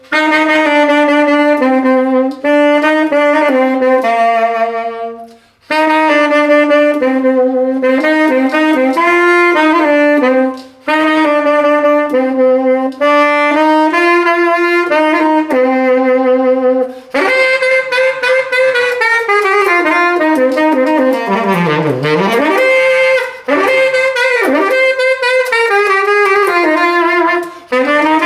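Saxophone playing a slow jazz-style melody in phrases with short breaths between them. Past the middle the line grows busier, with a long swoop down in pitch and back up.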